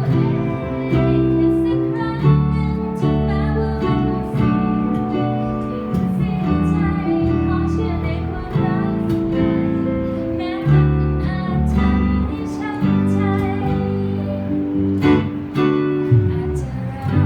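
A band rehearsing a song, with strummed acoustic guitar and a singing voice over held chords.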